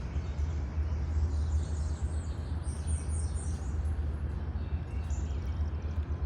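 Small birds chirping faintly in short high series, mostly about two to three seconds in, over a steady low rumble.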